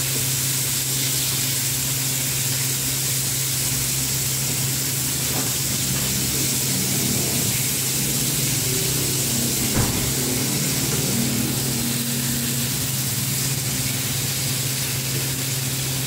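Chicken pieces frying in oil in a frying pan: a steady sizzling hiss over a constant low hum, with one sharp tap about ten seconds in.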